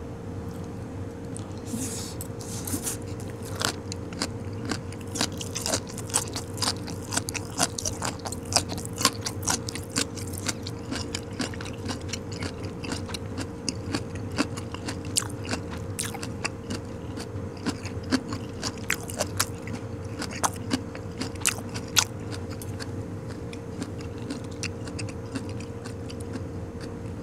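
Close-miked chewing of a mouthful of blanched goji-berry shoots: wet, crisp crunches and mouth clicks that start about two seconds in and thin out after about twenty-two seconds, over a steady low hum.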